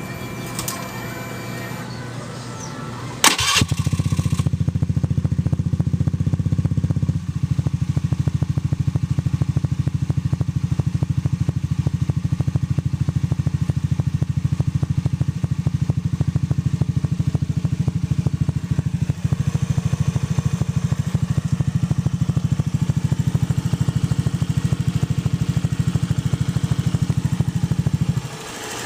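Honda Zoomer X scooter's single-cylinder engine starting about three seconds in and then idling steadily with a fast even ticking, the engine clicking sound in question, until it stops near the end.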